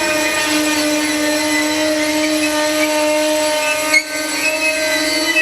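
A passing train giving off a steady, loud, single-pitched whine with a row of overtones, which dips briefly about four seconds in.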